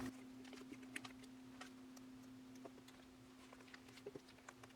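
Near silence: faint, scattered small ticks and light clicks as photocards are slid into plastic binder sleeves, over a steady low hum.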